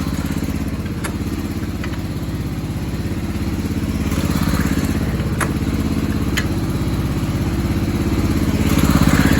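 Small garden tractor engine running steadily with an even, fast beat, a few sharp clicks over it and a brief rise in level near the end.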